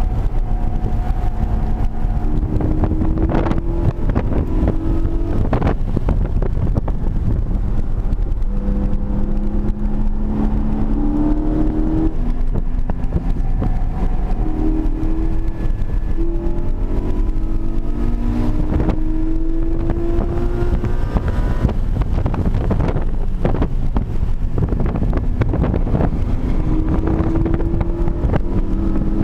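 Porsche 718 Cayman GT4's stock 4.0-litre flat-six heard from inside the cabin at speed, its pitch rising again and again through the revs and dropping back at each gear change or lift, over constant road and wind noise.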